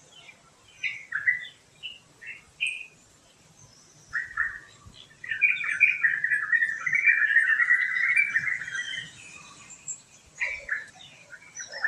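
Birds chirping: a few short, quickly falling chirps, then from about five seconds in a loud run of rapid chattering notes lasting about four seconds, and a few more chirps near the end.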